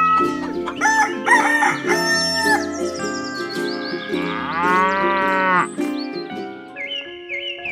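Farmyard sound effects over light background music: short high calls in the first seconds, then a rooster crowing once for about a second and a half in the middle, and quick high chirps near the end.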